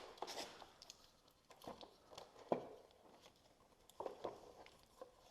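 Faint handling sounds: a few scattered clicks, taps and brief rustles of parts and wiring being moved by hand.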